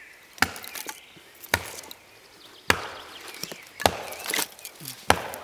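Axe chopping wood into kindling: five sharp strikes, about one a second.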